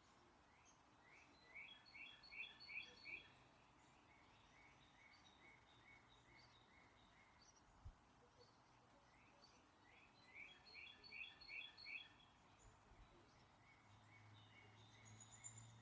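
A songbird singing, a phrase of about six quick chirps followed by a run of slower chirps, heard twice about nine seconds apart, over a faint steady hiss.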